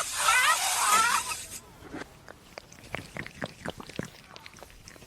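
A cat meowing with rising, wavering calls, cut off abruptly about a second and a half in. Then quiet, irregular crunching clicks of a pet chewing.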